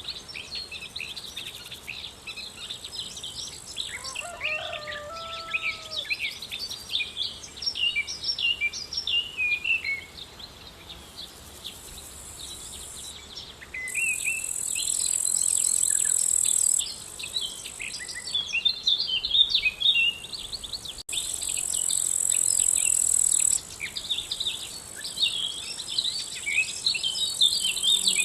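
Outdoor chorus of many birds chirping and twittering, with insects such as crickets keeping up a high, steady buzz that starts and stops abruptly several times, loudest in the second half.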